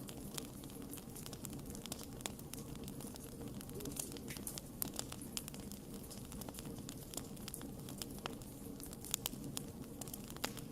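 Wood fire burning, with a steady low rumble of flame and frequent sharp irregular crackles and pops from the burning wood.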